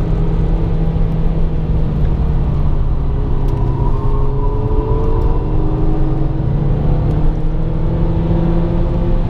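Stock VW MK5 GTI's turbocharged 2.0-litre four-cylinder engine running at a steady cruise, heard from inside the cabin over tyre and road noise. The engine note shifts slightly in pitch around the middle.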